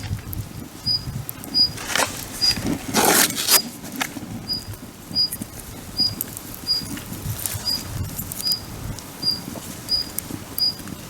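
Wood fire crackling with scattered sharp pops. A short high pip at one pitch repeats about every 0.7 seconds throughout.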